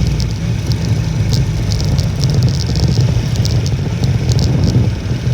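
Strong wind buffeting the microphone in a loud, steady low rumble while riding a Honda Little Cub, its small engine running underneath. Scattered sharp ticks come through above the rumble.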